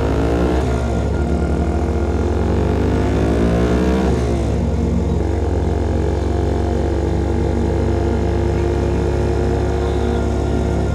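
Exhaust of a CFMOTO Papio SS's single-cylinder engine through a KO Lightning slip-on exhaust, on the move. The revs climb through a gear for about three seconds, drop sharply about four seconds in, then hold steady at a cruise.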